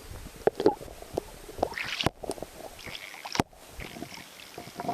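Water splashing and sloshing at the side of a canoe, with sharp knocks against the hull, as a large lake trout is brought alongside.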